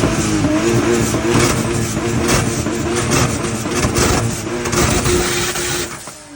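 A car engine revved hard and held at high revs, with a harsh rough noise over it. About six seconds in the noise drops away and the engine note starts to fall as the revs come down.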